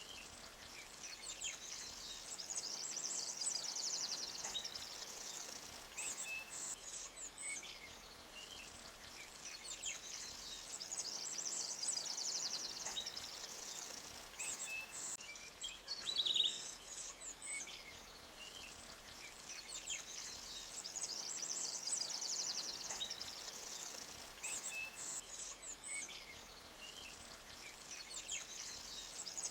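Forest songbirds singing: high trilling songs and scattered short chirps, the trills returning about every ten seconds, with one sharper chirp a little past halfway. Under them is a faint steady hiss of a clear creek flowing over rocks.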